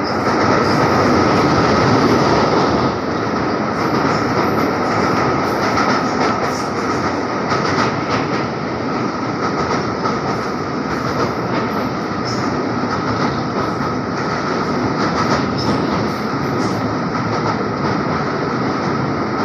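Express train running steadily across a railway bridge over a river: a continuous rumble of wheels on rails with a rapid clatter of clicks, and a steady ringing tone above it.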